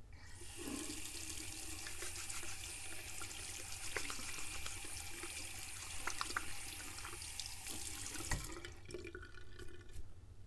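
Tap water running into a sink while hands are washed under it, with small splashes and clicks. The water stops shortly before the end, just after a low knock.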